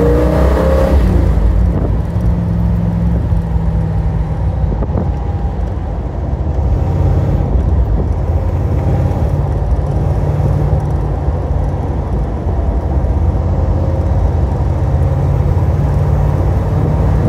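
Corvette C3's big-block 454 LS6 V8 engine pulling the car along the road, its note rising briefly at the start and then settling into a steady low drone at cruise.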